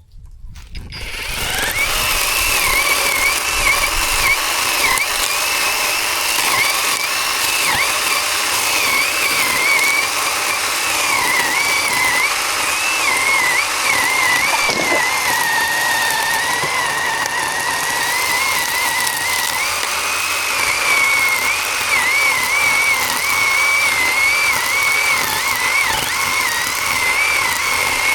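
Zhipu 48V cordless electric chainsaw running, its high motor whine wavering and dipping again and again for nearly half a minute. It starts about a second in and stops suddenly.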